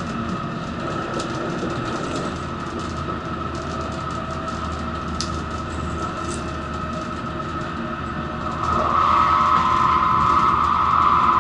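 N700-series Shinkansen car running, heard from the door vestibule: a steady rumble with scattered clicks from the wheels and track, and a high whine that grows louder about nine seconds in.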